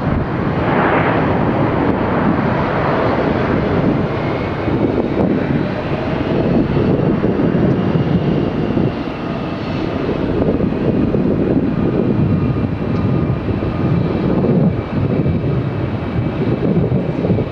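Airbus A330-300 jet engines at high thrust: a loud, steady rushing noise with faint whining fan tones on top that drift slightly in pitch.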